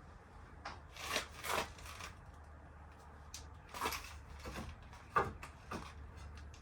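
About half a dozen irregular knocks and clicks, like parts or tools being handled, the sharpest a little after five seconds in, over a faint steady low hum.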